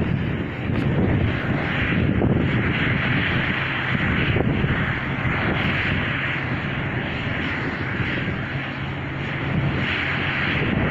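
Cessna R182's six-cylinder piston engine and propeller running steadily, a continuous loud drone with a low hum underneath.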